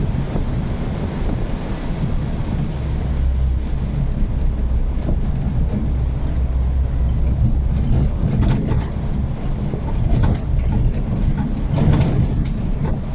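An old Suzuki Katana small 4x4 driving, its engine droning under a steady rushing road and wind noise. A few short knocks or rattles come near the end.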